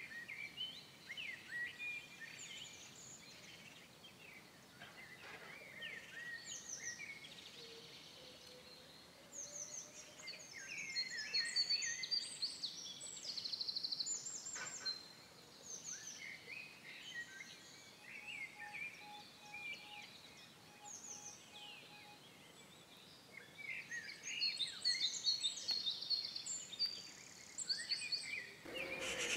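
Small songbirds chirping and twittering in quick high notes, off and on throughout, with a louder steady hiss starting near the end.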